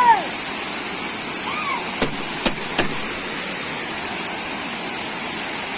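Waterfall rushing steadily, with one short distant shout about one and a half seconds in and a few faint clicks around two and a half seconds.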